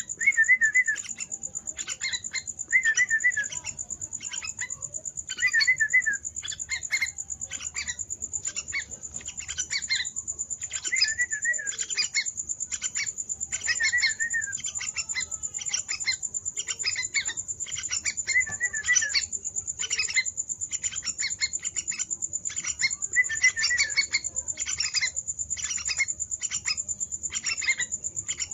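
Young yellow-vented bulbul chicks chirping: short chirps repeated about twice a second, with a brief warbling phrase every few seconds, over a continuous steady high-pitched whine.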